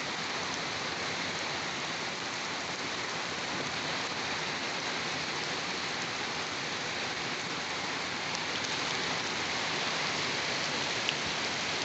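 Steady rain falling and pattering on surfaces, an even hiss with no pauses.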